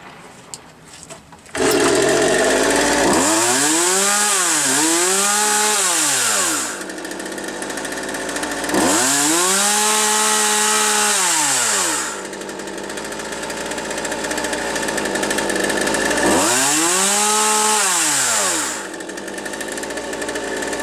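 Partner 351 two-stroke chainsaw engine revved from idle to full throttle and back three times. The first rev dips briefly in the middle before climbing again. The saw is being tested for hesitation after repair of an air leak at the carburetor adapter.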